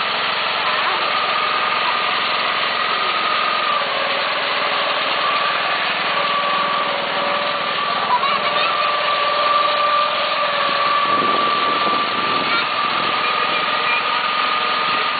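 Small tractor's engine running steadily under throttle, with a high whine that dips slightly in pitch about four seconds in.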